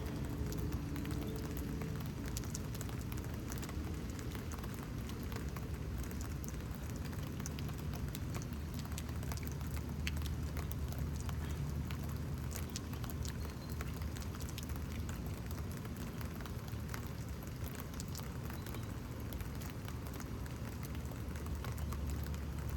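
Steady rain with many separate drops ticking and pattering close to the phone, over a steady low rumble.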